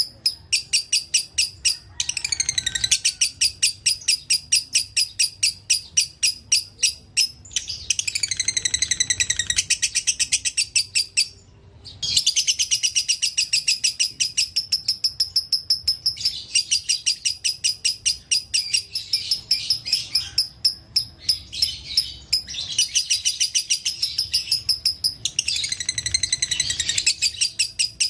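Lovebird giving its long chattering trill (ngekek): rapid high notes repeated about five times a second in long unbroken runs, with one short break about halfway.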